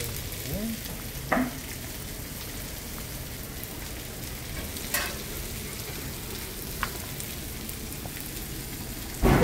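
Egg-battered pollack fillet pancakes sizzling steadily in oil on a flat griddle, with a few brief faint clicks.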